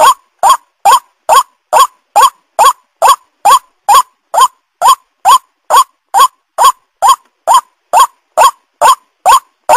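White-breasted waterhen (ruak-ruak) call played as a lure call: a short, rising note repeated evenly, a little over twice a second.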